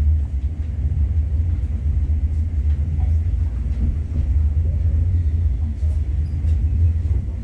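Bernina Express train of the Rhaetian Railway running, heard from inside the carriage: a steady low rumble from the train on the track.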